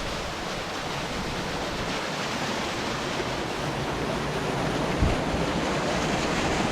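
Steady rushing roar of a 104-metre waterfall heard close to its base, where the spray falls like heavy drizzle. A low thump about five seconds in.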